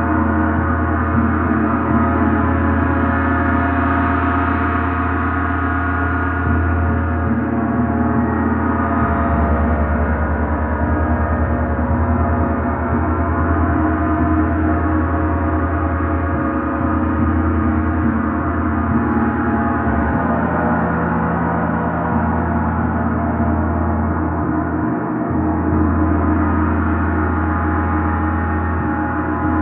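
A gong played as a continuous wash: a dense, sustained mass of ringing tones with no pause, its low notes shifting a few times as it is struck again.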